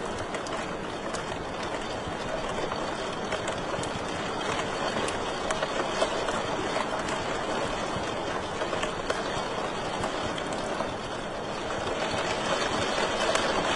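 Wood fire crackling in a fireplace: a steady hiss with scattered small pops and one sharper pop about six seconds in.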